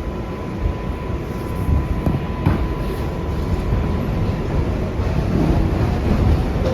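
New York City R142A subway car running between stations, heard from inside the car: a steady low rumble of wheels on rail with a sharp clunk about two and a half seconds in. A thin steady whine sounds over the first four seconds or so, and a faint rising whine comes in near the end.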